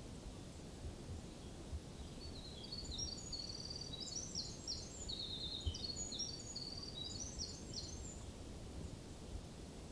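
A songbird sings one long, high, rapid song of many short jumbled notes, starting a couple of seconds in and lasting about five seconds, over a steady low background rumble.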